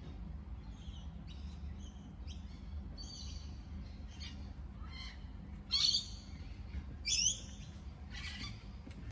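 Wild birds calling: a run of short chirping and whistled calls, two of them clearly louder about six and seven seconds in, over a steady low rumble.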